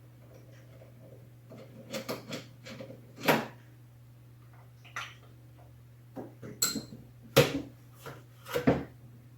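Hand tools and metal parts clanking and clicking in separate knocks while a lawn tractor's steering wheel is unbolted and lifted off, the loudest a little past three seconds and about seven seconds in, over a steady low hum.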